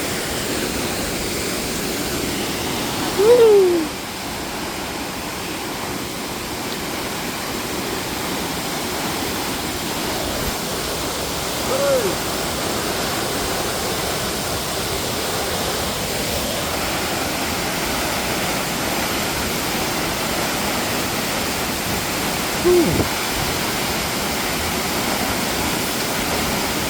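Waterfall rushing, a steady roar of falling water. Three short calls falling in pitch cut through it: the loudest a few seconds in, fainter ones about midway and near the end.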